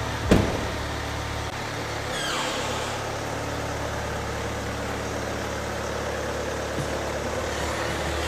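Car engine running with a steady low hum, a sharp knock just after the start and a brief falling squeal about two seconds in.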